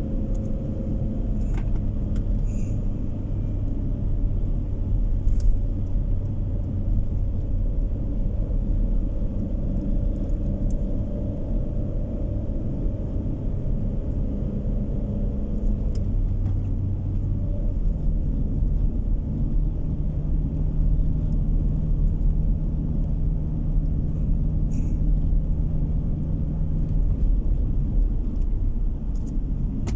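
Car driving along a road, heard from inside the cabin: a steady low rumble of engine and tyres, with the engine note shifting about halfway through.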